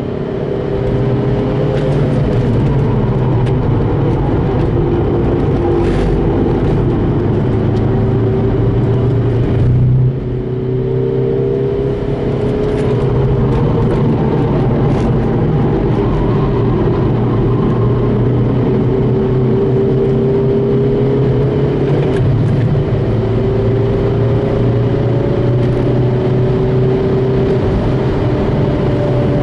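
Remapped 2.0 TDI PD four-cylinder diesel of a VW Golf Mk5 driven hard on track. The engine note climbs through each gear and drops at shifts about 2, 10 and 22 seconds in, over a steady low drone.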